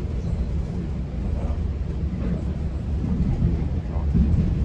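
Steady low rumble of a GO Transit commuter train heard from inside a passenger coach as it runs along the track.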